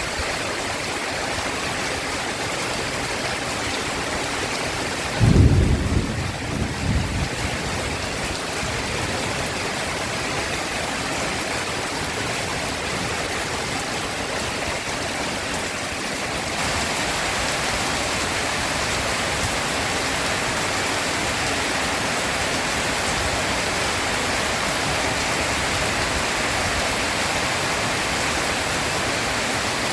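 Heavy rain falling steadily, with one thunderclap about five seconds in that rumbles on for a couple of seconds. From about sixteen seconds the rain grows slightly louder and hissier.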